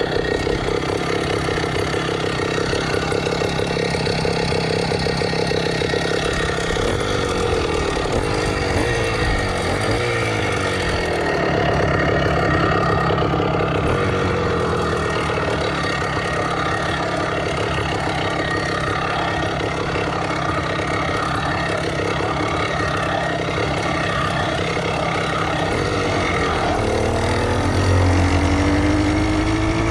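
Motorized bicycle's BBR Tuning stock kit engine running under way. Its note sags and recovers about a third of the way in, then climbs steeply near the end as it revs up and accelerates.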